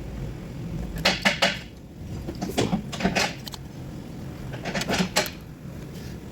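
Metal clanks and clinks from tools and parts being handled during engine installation work on a car, in three short clusters of knocks.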